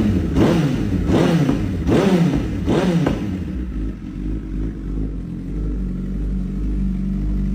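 Honda CBR1000RR inline-four engine blipped four times in quick succession through its exhaust, each rev rising sharply and falling straight back, then settling to a steady idle for the rest of the time.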